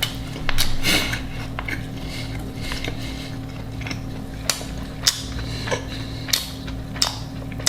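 Close-miked chewing of food, with a cluster of crunchy clicks about half a second in and then single sharp crunches about every half second.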